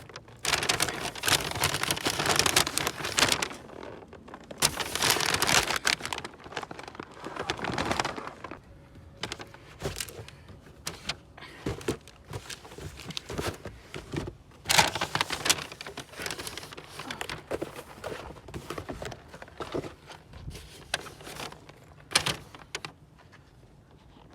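Paper grocery bags rustling and crinkling in loud bursts as they are handled, with scattered knocks and thuds of items being moved and set down.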